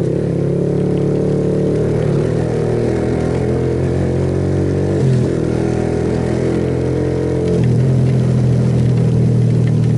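Suzuki Yes motorcycle's single-cylinder engine running under throttle. Its pitch shifts about five seconds in, and it runs louder from about seven and a half seconds in.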